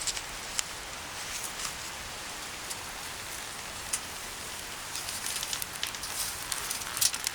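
Wood fire crackling: a steady hiss with scattered sharp pops and snaps that come thicker about five seconds in.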